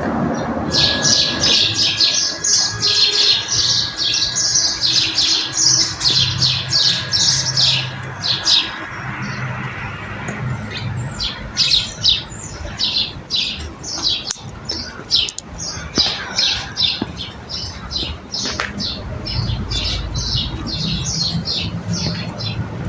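Birds chirping: many quick, high chirps in dense chatter for the first nine seconds or so, then more spaced-out chirping.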